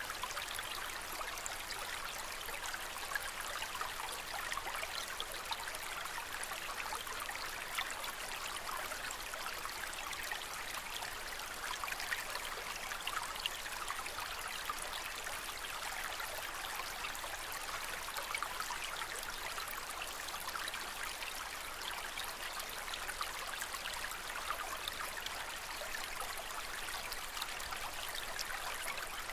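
Aquarium water trickling and splashing steadily, a continuous fizzy babble with small irregular drips.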